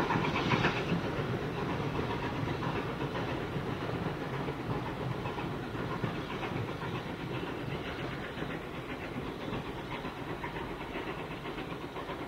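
Steam-hauled passenger train running away along the line, its wheel and rail clatter fading steadily as it draws off.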